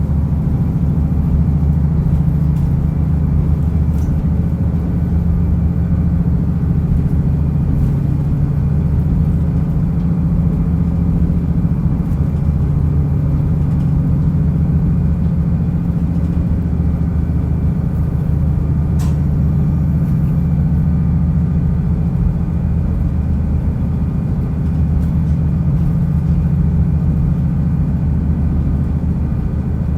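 Diesel railcar running along the track: the engine's steady drone over the rumble of the wheels, with a brief click about two-thirds of the way through.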